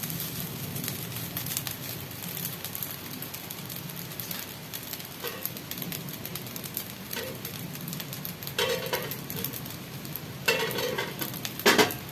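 Food sizzling and crackling in a frying pan, with a few louder scrapes or knocks near the end.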